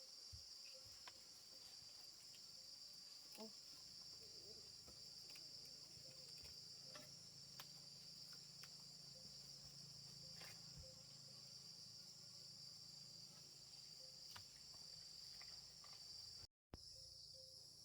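Faint, steady insect chorus: a high continuous trill with a few small clicks scattered through it. It drops out for a moment near the end.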